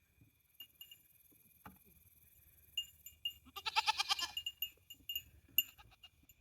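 Goat bleating once, a loud wavering call lasting under a second about three and a half seconds in, over faint short high chirps and a steady thin high tone.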